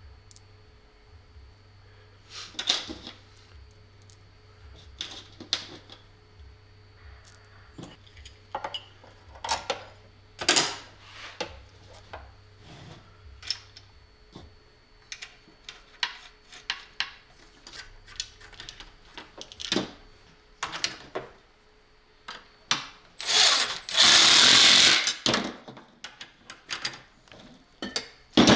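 Sharp clicks and clinks of small metal parts being handled and fitted, then about 23 seconds in a power driver runs for about two seconds while the handle bolt is tightened.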